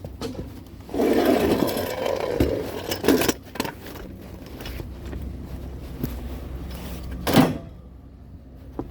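Rustling and knocking as curbside items are handled and loaded: a second or so of rustling, a few knocks, then one loud knock near the end.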